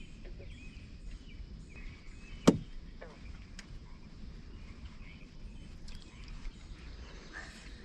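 Steady outdoor background noise, with one sharp click about two and a half seconds in and a fainter one about a second later.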